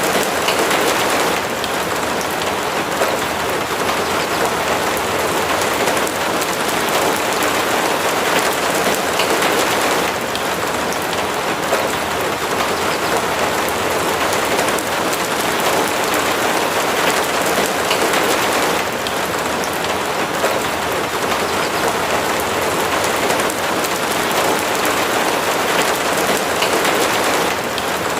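Steady rain falling, an even hiss flecked with the patter of individual drops.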